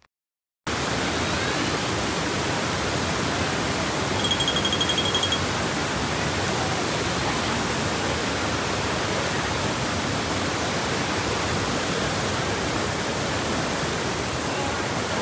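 Large waterfall roaring: a steady, even rush of falling water that starts abruptly after a moment of silence. A short high-pitched tone sounds briefly about four seconds in.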